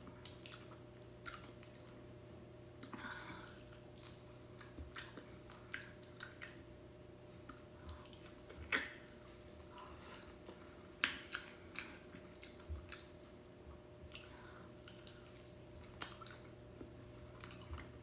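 A person chewing soft durian flesh close to the microphone: irregular wet mouth clicks and smacks, a few louder ones around the middle, over a faint steady hum.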